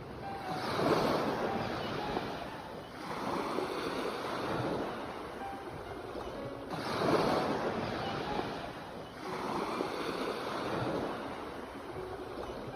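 Sea waves breaking, the surf swelling and falling away four times, about every two and a half to three seconds.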